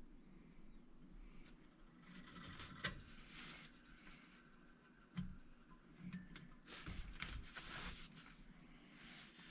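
Quiet handling sounds at a sewing machine: scattered light clicks and rustles, one sharp click about three seconds in, and a few soft thumps later on; the machine itself is not running.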